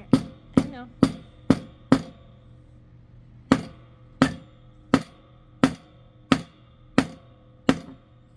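Hammer driving nails into the wooden pieces of a birdhouse kit: a quick run of five sharp strikes, a pause, then seven more steady strikes a little slower.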